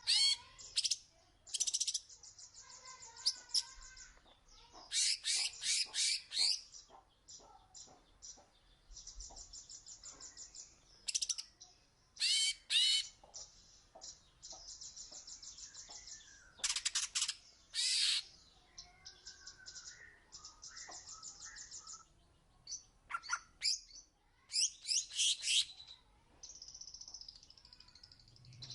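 Oriental magpie-robin (kacer) singing a varied song: clusters of loud, sharp sweeping whistles alternating with fast, buzzy trilled passages, in phrases separated by short pauses.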